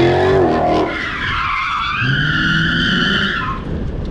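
Car engine revving hard with tyres squealing. The revs climb, drop just under a second in, then climb again, and the squeal cuts off near the end.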